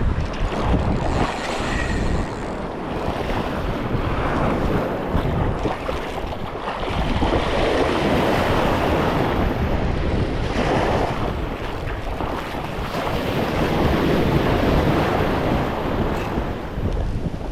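Ocean surf breaking and washing up the beach, with wind buffeting the microphone. The wash swells louder twice, about halfway through and again near the end.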